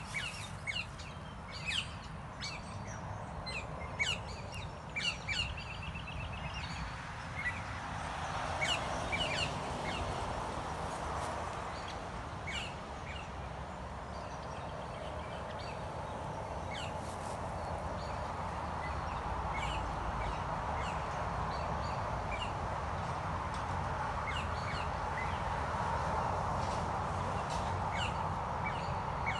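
Outdoor birds chirping and calling in short, sharp notes, thick in the first several seconds and scattered after that, over a steady low rumble. From about eight seconds in, a steady rushing noise builds and holds under the calls.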